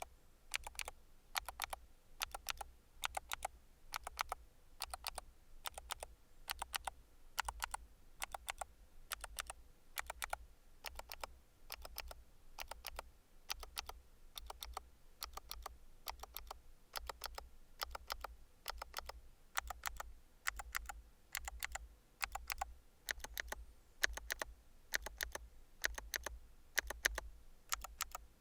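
Typing on an FL-Esports NX87HE tenkeyless keyboard with magnetic FL-CMMK Lemon switches: keystrokes clatter in quick runs with brief pauses between.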